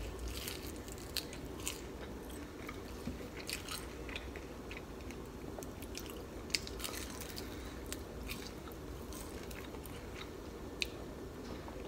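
Close-miked biting and chewing of a crispy chicken wing, with scattered crunches and crackles that come thickest near the start.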